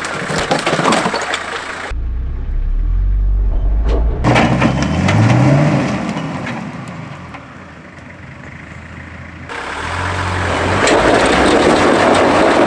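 An off-road 4WD's engine pulling at low speed over rocks, revving up once around five seconds in. Rock crackles and crunches under the tyres.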